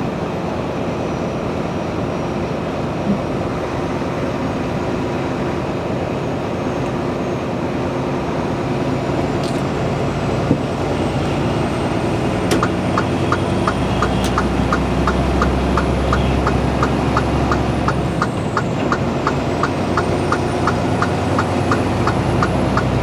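Steady engine and road noise inside a semi truck's cab while driving. About halfway through, a fast, regular ticking starts at about three ticks a second, and a deeper drone swells for a few seconds.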